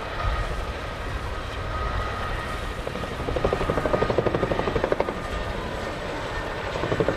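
CH-47J Chinook tandem-rotor helicopter running, a steady engine rumble and whine with a rapid rotor beat that swells about three seconds in and again near the end.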